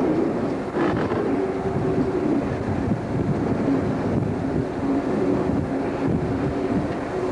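British Rail Class 47 diesel locomotive and its train moving, a steady engine drone over rolling rail noise, with a single knock about a second in.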